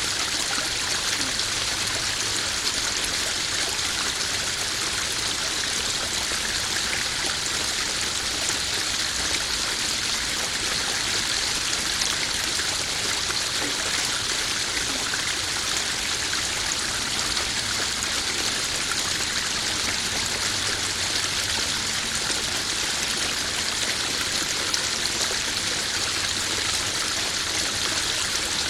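Small garden koi-pond waterfall: water spilling and splashing steadily into the pond, a constant bright rushing with fine splashes.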